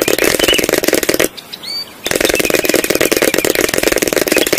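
Fast, machine-gun-like rattling sound effect for a stop-motion figure's scurrying walk, in two runs: one stops about a second in, and the next starts about a second later and goes on. Faint bird chirps are heard in the gap.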